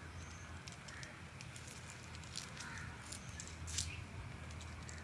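A bird in a tree giving faint short high chirps and scattered ticks, the sharpest a little before the end, over a steady low hum.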